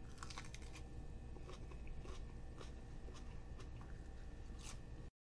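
Biting into and chewing a whole fresh Gator Jigsaw hot pepper pod, with crisp crunches about every half second. The sound cuts off suddenly near the end.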